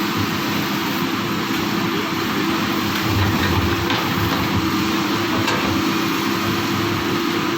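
Excavator's diesel engine running steadily under work, with a couple of faint clicks about three and five and a half seconds in.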